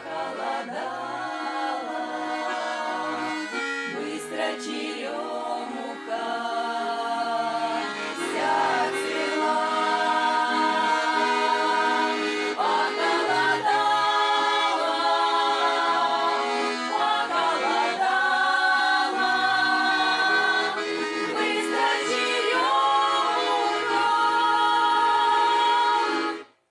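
A song with accordion accompaniment and singing voices; the music cuts off abruptly near the end.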